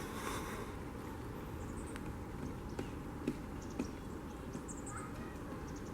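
Pileated woodpecker pecking at wood: a few separate, irregular knocks, three of them about half a second apart in the middle, over a steady background hush. Faint high chirps of small birds come twice.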